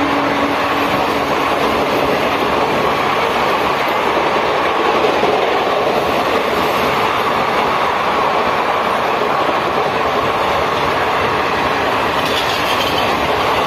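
Indian Railways express train's passenger coaches passing at speed, a steady, loud clatter of wheels on rail joints and running noise. A held tone fades out in the first second or so.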